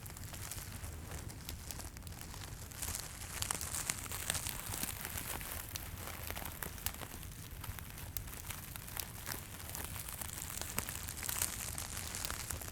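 Close-up crinkling and rustling of handled material, full of small sharp crackles, over a steady low rumble.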